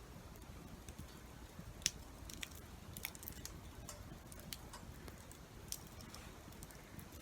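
Wood campfire crackling, with scattered sharp pops and ticks at an irregular pace over a faint steady background; the loudest pop comes about two seconds in.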